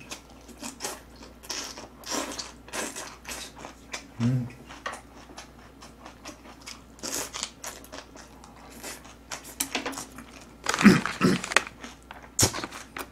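A person chewing and crunching food close to the microphone, a quick run of crisp crunches, with a brief low hum about four seconds in and a short voiced sound near the end.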